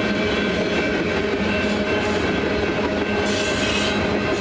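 Freight train of tank cars and autorack cars rolling past, a steady rumble and clatter of steel wheels on the rails. A brighter hiss joins about three seconds in.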